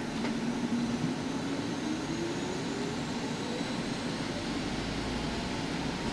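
Solaris Urbino 8.9 LE electric bus's drive whining inside the passenger cabin, the whine rising steadily in pitch as the bus gathers speed, over a steady rumble of road and cabin noise.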